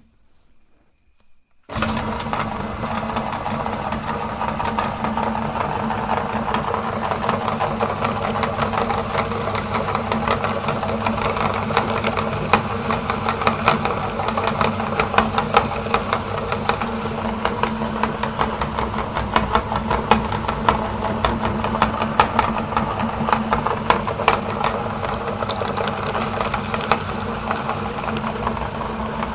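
Electric meat grinder switched on about two seconds in and running steadily with a constant motor hum, over a dense stream of irregular crackles and knocks from chocolate bars being ground.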